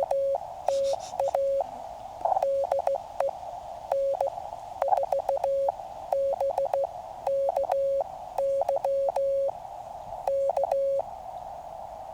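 Morse code sidetone from a QCX mini QRP transceiver: a steady single tone keyed on and off in dots and dashes, sending a CW call with SOTA in it. Clicks mark the keying, and receiver hiss fills the gaps between the letters.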